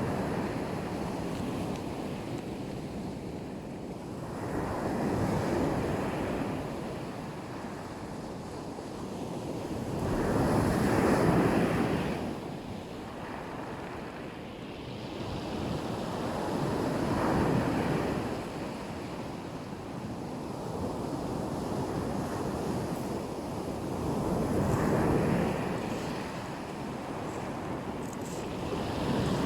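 Black Sea surf breaking on a beach, a continuous wash of water with a wave surging in about every six seconds.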